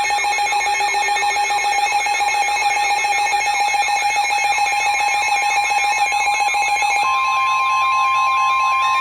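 Electronic weather alert alarm: a steady tone under a fast, repeating warble. About seven seconds in, a second, higher steady tone joins it. It is the attention signal that comes before a National Weather Service severe thunderstorm warning.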